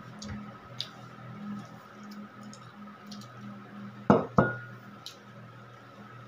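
Dishes and cutlery clinking at a meal: a few light taps, then two sharp clinks about four seconds in, the second leaving a brief ringing tone. A steady low hum runs underneath.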